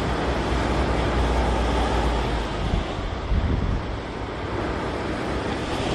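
Wind rumbling on the microphone over the wash of small ocean waves breaking, with a few louder gusts in the middle.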